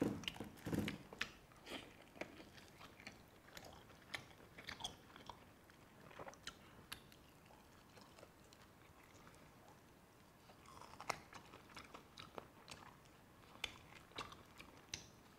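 A person chewing roast duck: faint, irregular clicks of mouth and jaw.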